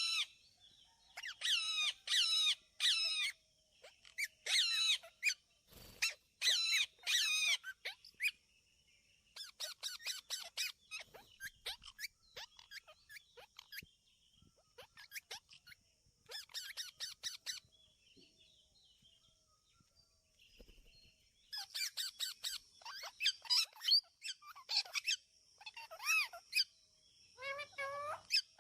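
Baby Indian ringneck parrot chicks calling in bursts of rapid, high-pitched repeated calls with short pauses between, thinning out through the middle and picking up again near the end.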